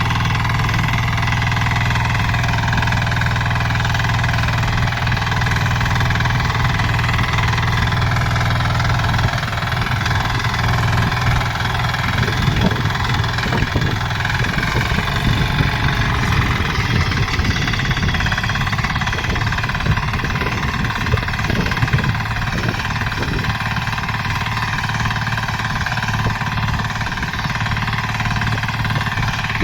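A 10 HP power tiller's single-cylinder diesel engine running steadily. About nine seconds in, an uneven low rumble joins it.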